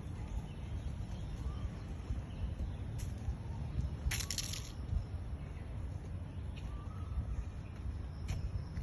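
Outdoor park ambience: a steady low rumble with faint, scattered bird chirps, a short hiss about four seconds in, and a few light clicks.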